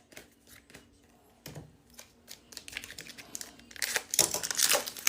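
Foil wrapper of a Pokémon booster pack crinkling and being torn open, loudest from about four seconds in, after a few light taps and clicks of handling.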